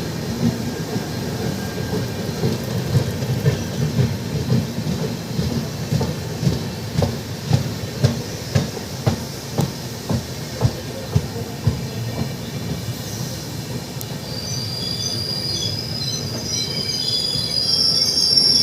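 Avadh Assam Express passenger train rolling on the track with a steady low rumble, its wheels clacking over rail joints about twice a second. Near the end a high-pitched squeal of wheels on the rails comes in and grows louder.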